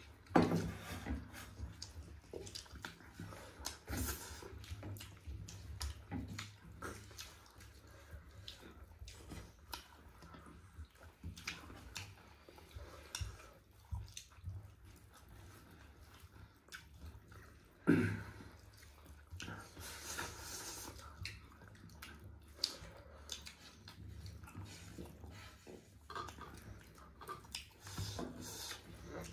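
Close-miked eating sounds: wet chewing, with mouth clicks and smacks throughout. Two sharp, louder sounds stand out, one just after the start and one about 18 seconds in.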